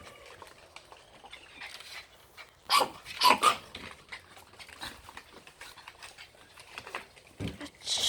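Pet dogs barking: two or three sharp barks close together about three seconds in, with lighter clicks and knocks scattered around them.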